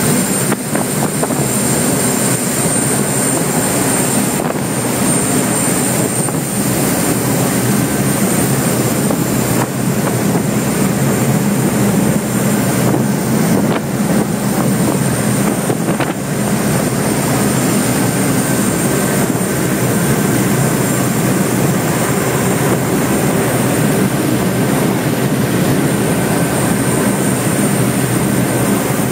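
A 6000 hp race boat's engines running at high speed, a loud, steady drone under dense rushing noise with a thin constant high whine.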